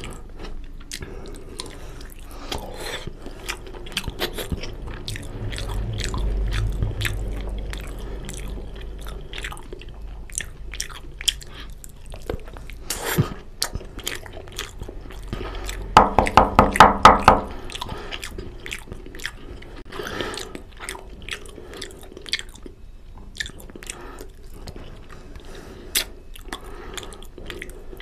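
Close-miked wet chewing, biting and lip smacking as a man eats mutton curry off the bone by hand, with many small sharp clicks. About sixteen seconds in comes a short run of loud, rapid pulses, about five a second, lasting a second and a half.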